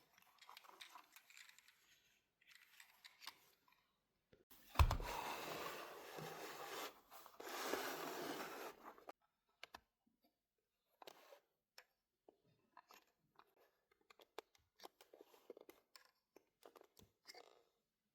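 Close handling noises: a thump about five seconds in, then about four seconds of rustling and tearing like packaging being torn open, followed by scattered small clicks and taps.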